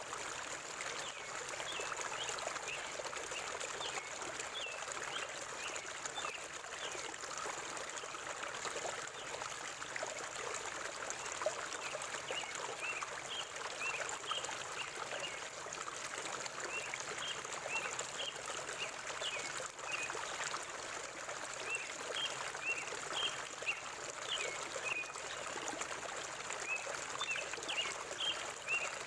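River water flowing with a steady rush, and a bird calling over it in short repeated chirps that come more often in the second half.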